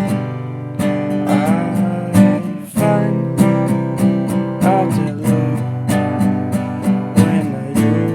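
Acoustic guitar strummed in a steady rhythm, playing the accompaniment of a folk song.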